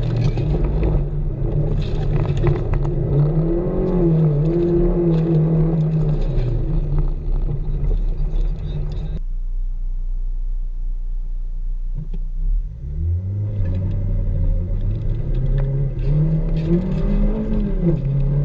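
Toyota Matrix XRS four-cylinder engine heard from inside the cabin, revving up and easing off repeatedly while driven hard. About nine seconds in the sound cuts abruptly to another run, then rises and falls again.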